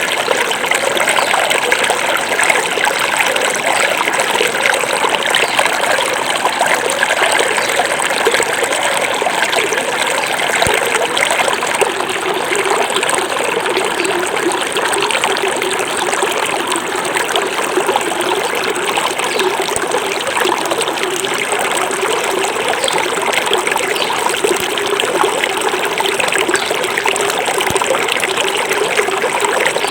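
A small forest river flowing over stones, with a steady trickling, bubbling rush of water.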